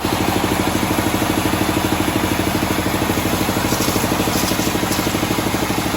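Engine of a homemade bandsaw sawmill running steadily, with a rapid even beat.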